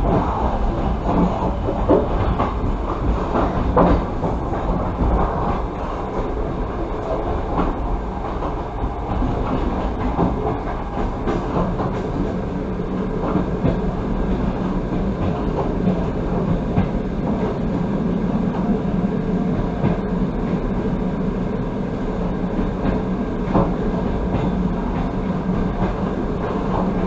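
Passenger train running along the track, heard from inside the carriage: a steady rolling rumble of wheels on rails with scattered clacks.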